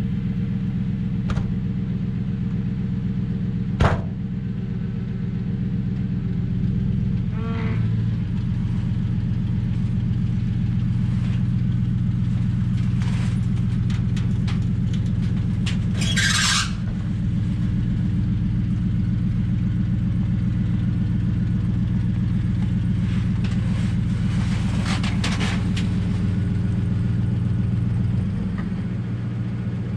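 Truck engine running steadily at a low, even pitch, with a sharp knock about four seconds in and a brief noisy burst around sixteen seconds.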